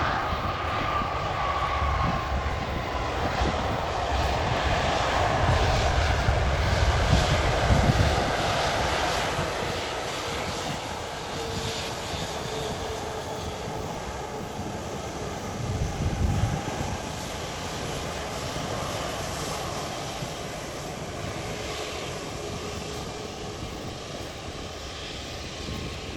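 Airliner's engines passing close by: a rumble with a whine that falls in pitch, growing loudest about a quarter of the way in and then fading away.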